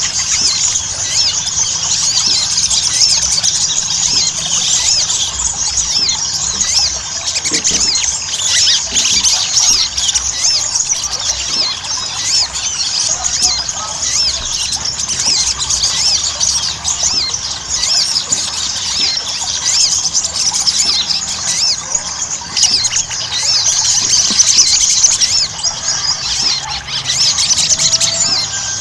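Sogon (little spiderhunter) singing nonstop in full voice: a dense, fast chatter of high, thin chirps and squeaks.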